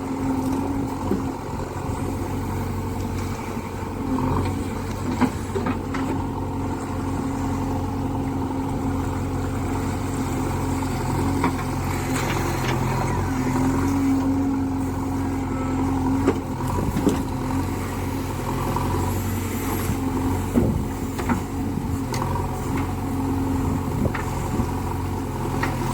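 Diesel engine of a JCB backhoe loader running steadily as it works, its note swelling at times, with a few sharp knocks of the working gear.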